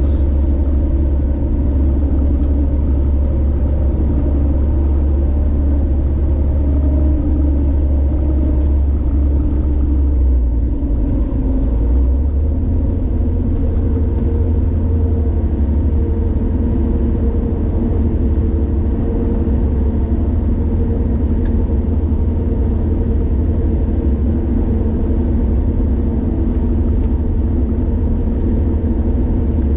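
Car driving along a highway: a steady, loud low rumble of engine and road noise, whose deepest tone shifts slightly about ten seconds in.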